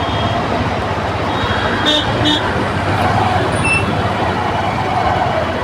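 Traffic noise in a slow-moving jam, with vehicle engines running steadily and two short horn beeps about two seconds in.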